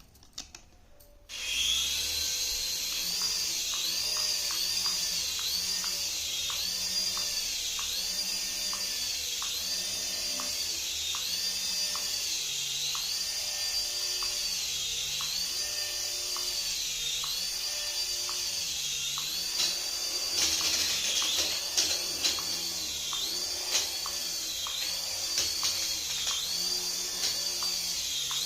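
A battery-powered toy switched on about a second in: a steady high electric motor and gear whine, with a looping electronic sound effect of repeating rising-and-falling tones and a simple tune playing over it.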